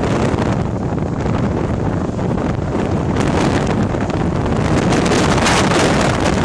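Hurricane-force wind buffeting the microphone: a continuous heavy rumble with sharper gusts hissing through, growing more frequent in the second half.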